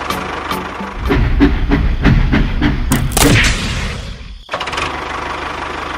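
A small engine or motor running with a steady hum, with irregular knocks and clattering over it for a few seconds. The sound cuts off abruptly, and the hum then resumes.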